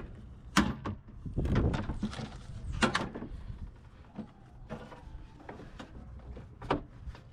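Scattered sharp knocks and clanks of hand work on a car, with a longer scraping rumble about a second and a half in.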